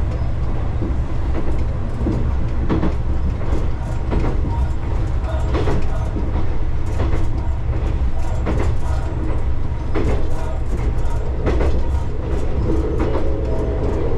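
Matsuura Railway diesel railcar running steadily: a constant low rumble with a few steady engine tones, and frequent irregular clicks and knocks from the rails.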